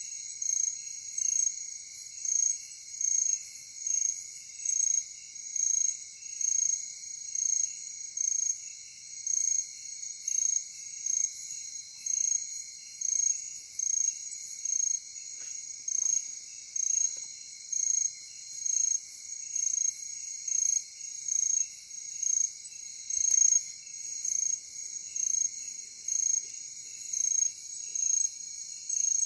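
Night insect chorus, crickets trilling: a steady high-pitched chirp repeats about three times every two seconds over fainter, lower chirping and a continuous high hiss of other insects.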